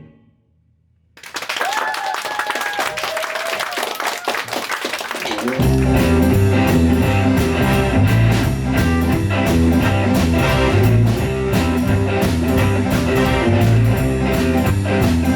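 Audience applauding, then about five and a half seconds in a band starts a boogie-woogie intro: bass, drums and electric guitar on a steady driving beat.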